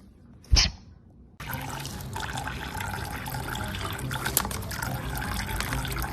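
Water running steadily, starting suddenly about a second and a half in, preceded by a single short sharp sound.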